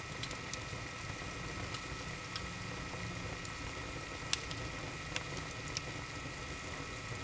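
Wood fire in an open fireplace crackling: a steady hiss with scattered sharp pops, the loudest about four seconds in.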